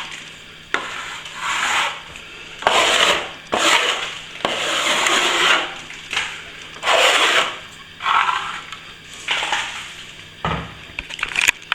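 A blade scraping back freshly applied plaster on a ceiling repair that is starting to firm up: a series of rasping strokes, roughly one a second.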